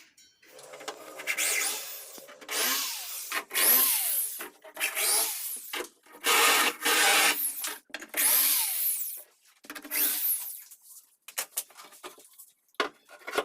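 Cordless drill-driver running in about eight short bursts, its motor pitch rising and falling, as screws are backed out to remove the HF tweeter from a wooden speaker cabinet.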